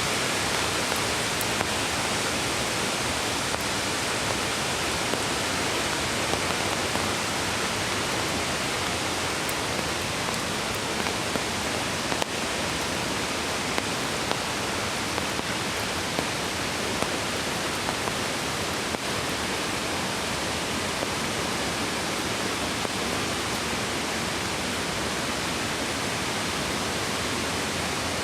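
Mountain creek rushing steadily, a constant even roar of running water, with a few faint clicks here and there.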